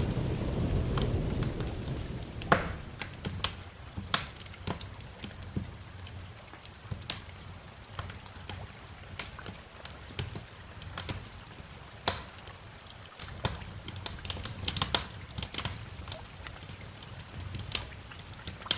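Wood fire crackling with irregular sharp pops and snaps, as a low thunder rumble dies away in the first two seconds.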